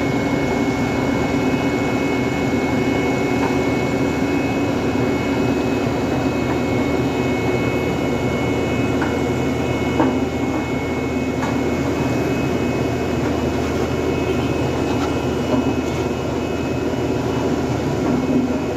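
Heavy vehicle engine running steadily, with a few faint knocks about ten seconds in.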